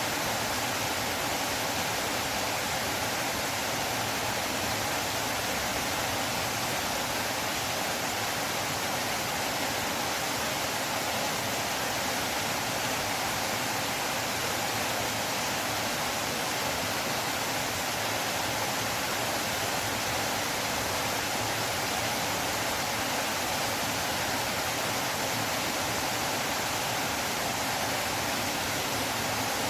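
Flowing river water, a steady, even rushing that does not change.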